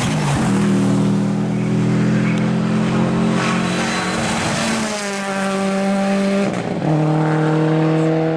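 Rally car engine running at high revs as the car passes. The steady note breaks about four and a half seconds in, jumps higher for about a second and a half, then drops back to a lower steady note.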